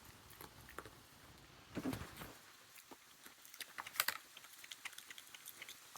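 Faint, irregular clicking and crackling of peanut shells as a raccoon chews and cracks peanuts. A brief low murmur comes about two seconds in, and a few louder cracks come around four seconds in.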